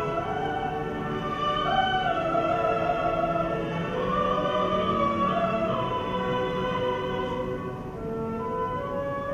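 Classical music in operatic style: long held sung notes that move slowly from pitch to pitch without a break.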